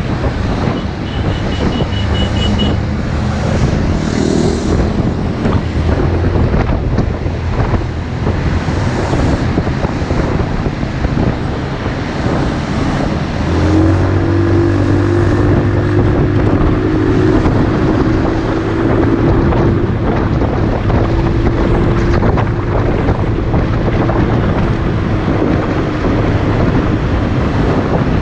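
Motorcycle engine running under way, with heavy wind rushing over the microphone; the engine note holds steadier and stronger about halfway through. A quick run of high pips sounds about a second in.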